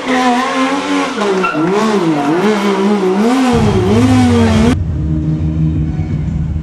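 Rally car engine revving hard, its pitch swinging up and down several times as the throttle is worked on and off. A little over halfway through it cuts suddenly to a lower, steady engine rumble.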